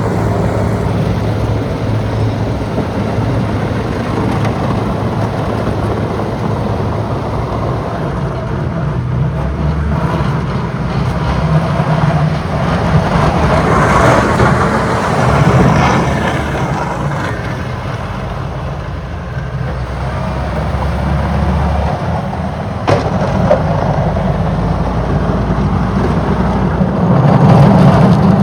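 Diesel engines of motor graders working steadily as they push snow into a windrow, swelling louder about halfway through and again near the end.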